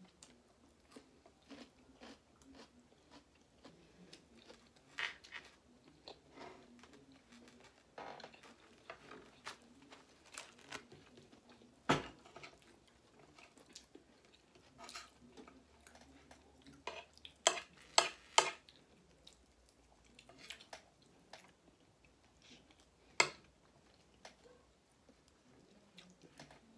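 People chewing and crunching food: soft, irregular mouth sounds with a few sharp, louder clicks and crunches, three close together a little after halfway.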